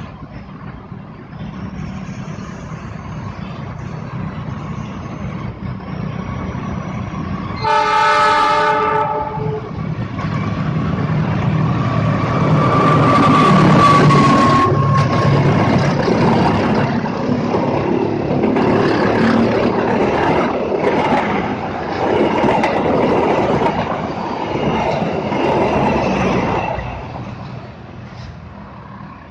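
A train approaching and sounding its horn once for nearly two seconds, then passing close by with a heavy rumble and wheel clatter that fades away near the end.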